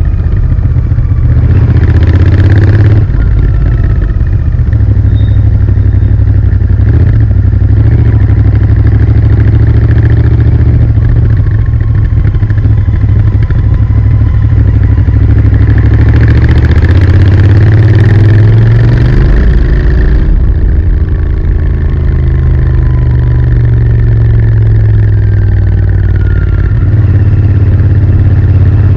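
Royal Enfield Interceptor 650's 648 cc parallel-twin engine running through its stock exhaust, a loud, steady note. The pitch climbs for a few seconds past the middle and then drops back sharply.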